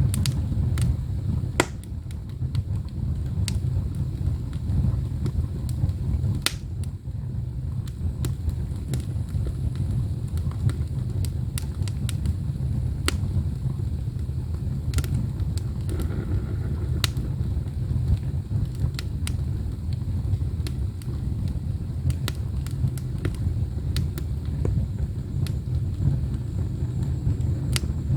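Firewood burning in an ondol furnace firebox: a low, steady rumble with irregular sharp pops and crackles.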